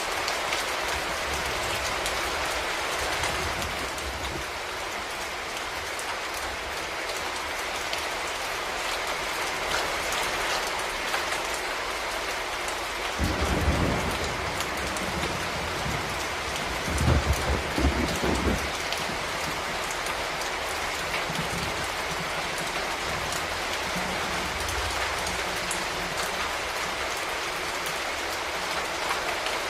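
Steady rain falling and pattering on surfaces, an even hiss. About halfway through come two brief low rumbles a few seconds apart.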